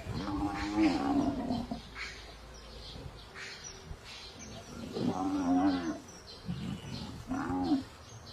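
African buffalo bawling: three moo-like calls, the first and second each about a second long and the third shorter, near the end. Faint bird chirps lie underneath.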